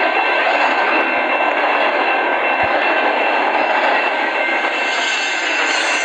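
Freight train wagons rolling past: a steady, loud rush of wheels on the rails, with a thin, steady high whine running above it.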